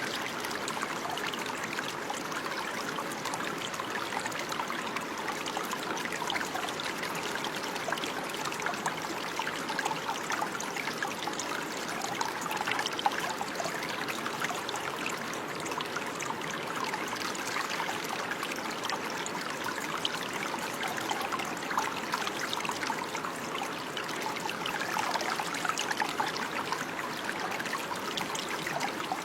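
Running water, a stream or brook trickling and burbling steadily.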